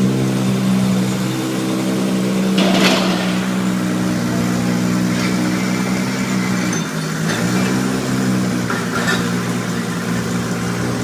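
Nissan GT-R with a Supersprint aftermarket exhaust, idling steadily. Its note dips briefly about seven seconds in, and a short rushing noise comes through about three seconds in.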